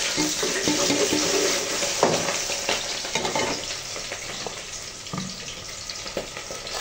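Onions frying in hot oil in an aluminium pot on a gas burner: a steady sizzle, with a metal spoon scraping and clinking against the pot now and then. The sizzle grows quieter in the second half.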